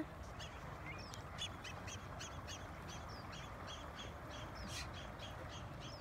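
Bird chirping: a steady run of short, high chirps, about four a second, over a low steady rumble.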